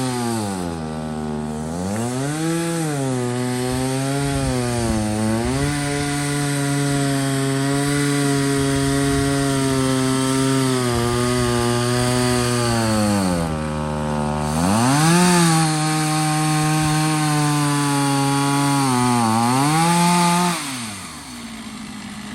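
Two-stroke chainsaw in a chainsaw mill, ripping a log lengthwise into boards. It runs under load at high revs, with the pitch sagging and recovering several times, then drops to a lower idle near the end.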